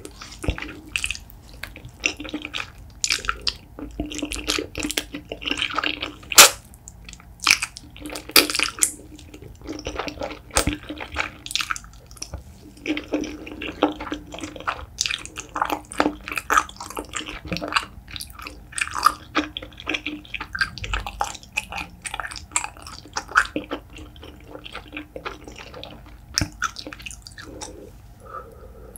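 Close-miked eating sounds of wide, flat udon noodles in spicy sauce being chewed: a dense, irregular run of sticky, wet clicks and smacks from the mouth.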